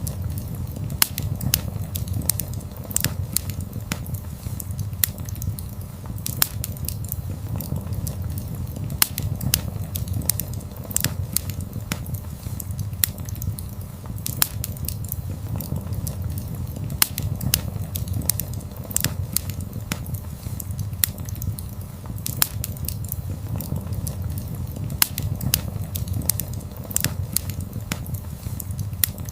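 Wood fire burning: frequent sharp crackles and pops at irregular intervals over a steady low rumble of the flames.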